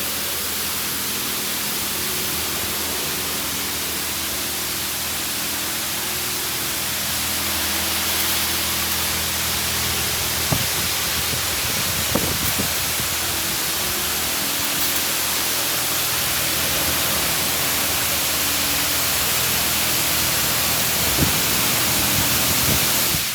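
High-pressure water jets of a Washworld Razor touchless car wash spraying the car: a loud, steady hiss of spray over a low, steady hum from the pump and machinery.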